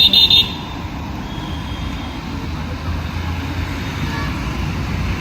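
Busy street traffic running steadily, with a vehicle horn sounding two quick blasts right at the start.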